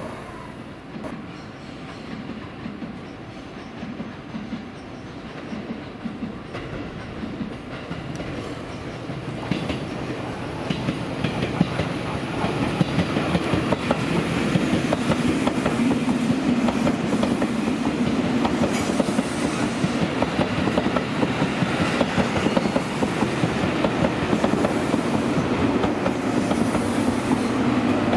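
A train running along the tracks, its wheels clattering over the rail joints. It grows louder over the first dozen or so seconds, then stays loud.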